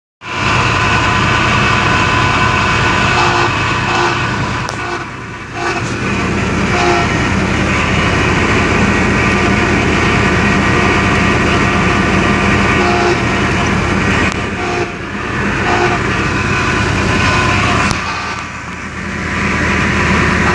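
A vehicle making a strange loud, sustained squeal of several tones held at once over a low rumble, from its brakes or steering, dipping briefly three times.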